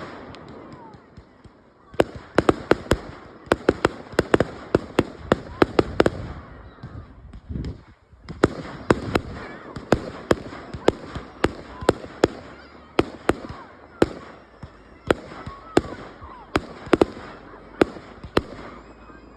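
Fireworks display: a rapid, irregular run of sharp bangs, often several a second, with crackling in between. It pauses briefly about seven to eight seconds in, then picks up again.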